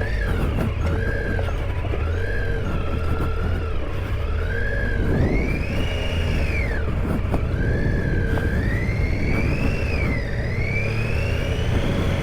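Triumph Tiger 800 XCa's three-cylinder engine ridden off-road, the revs rising and falling every second or two with the throttle on a rough trail.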